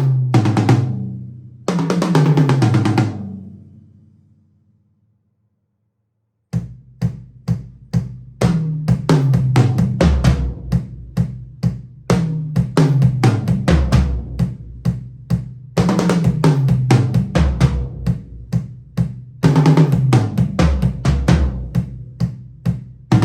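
Yamaha Recording Custom drum kit, close-miked and unprocessed. A tom fill falls from high to low toms and rings out to silence. After about two seconds a beat starts with bass drum and snare, broken by several more tom fills that each run down from the high toms to the floor tom.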